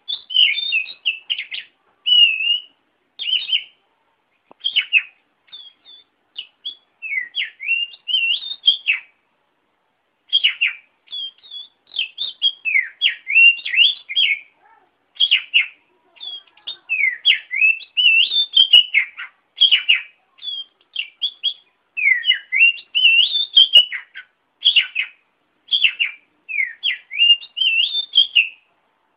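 Oriental magpie-robin (kacer) singing: a rapid, varied string of whistled notes, up- and down-sweeping chirps in short phrases with brief pauses between, played as a recording used to tutor and provoke caged kacer.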